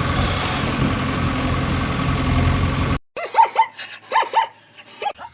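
A steady engine runs and cuts off suddenly about three seconds in. Several short, rising animal calls follow in quick groups, yelp-like barks.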